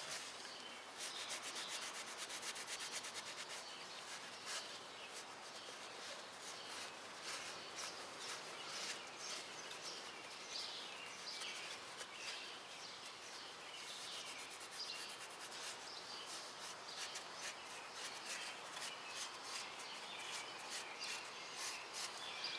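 Cloth shop towel wet with brake cleaner being rubbed and scrubbed over engine metal surfaces: a faint, continuous run of quick scratchy wiping strokes with short squeaks.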